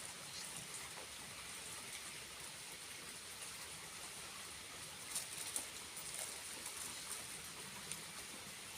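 A small waterfall running with a steady, even hiss, its flow kept up by June rain. A few sharp clicks sound about five seconds in.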